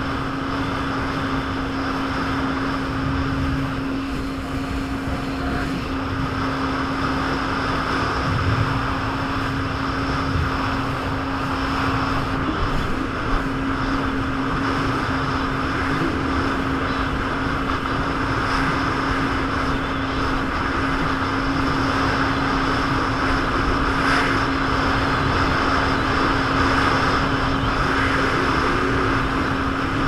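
Jet ski engine running at a steady speed, a constant drone over a steady rushing noise.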